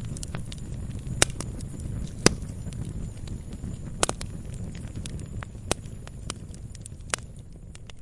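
Wood fire burning in a fireplace: a low steady rumble of the flames with irregular crackles and sharp pops from the burning logs, a few pops much louder than the rest.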